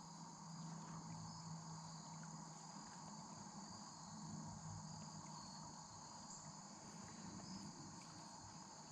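Faint, steady evening chorus of crickets and other insects, high-pitched and unbroken.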